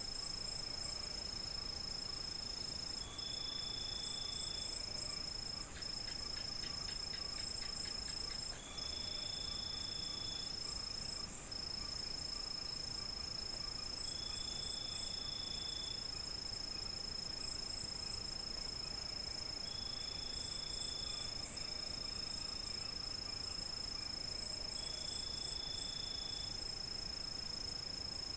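Crickets and other night insects trilling steadily in a high chorus, with one shorter, lower trill that repeats about every five to six seconds.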